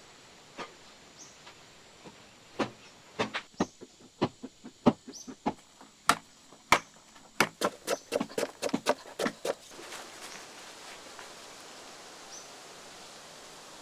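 A run of sharp knocks or strikes, irregular at about two to three a second, from a few seconds in until about ten seconds in, then a steady hiss. Faint short bird chirps come now and then.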